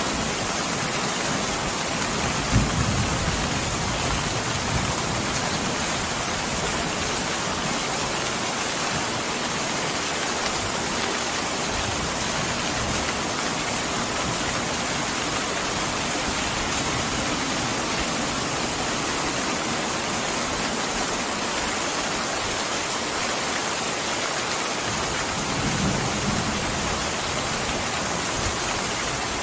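Steady rain, an even hiss with no break. A brief low rumble comes about two and a half seconds in, and another near the end.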